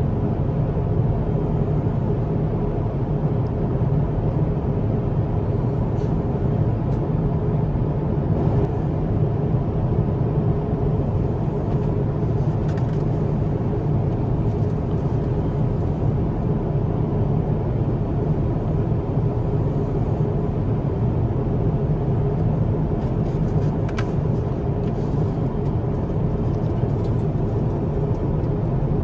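Steady low roar of engine and airflow noise inside the cabin of an Airbus A350-1000 in flight, unchanging in level.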